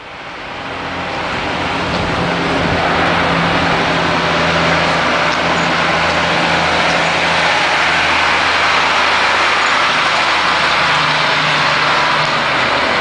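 Diesel engine of an International rack-body truck running as the truck drives up, growing louder over the first two seconds and then running steadily close by.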